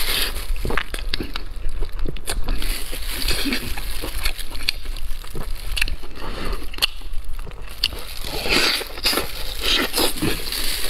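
Close-miked wet chewing and lip-smacking of braised pork knuckle, with many irregular sticky clicks.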